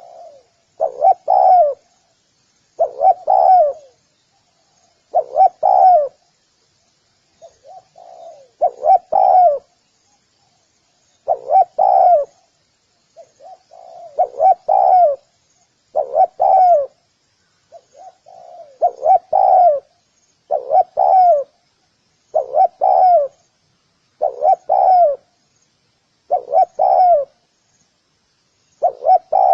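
Spotted dove cooing: a short, low phrase repeated about every two seconds, some phrases opening with a softer note.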